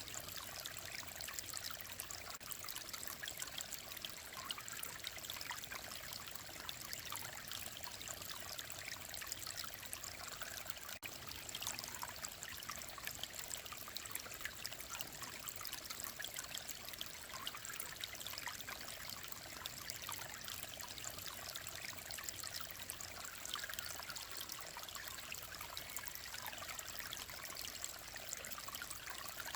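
Clear mountain stream flowing and babbling steadily over rocks, a continuous splashy rush with no change in strength.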